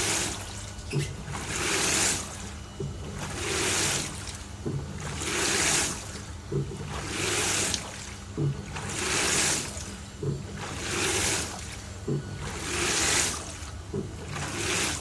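LG TurboDrum top-loading washing machine agitating a full load of bedding: water swishes in regular surges about every two seconds, each with a low thump as the drum reverses, over a steady motor hum.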